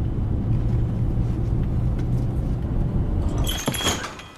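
Steady low rumble of a car on the move. Near the end the rumble drops away and a short clatter of clicks and jingling with a ringing tone follows.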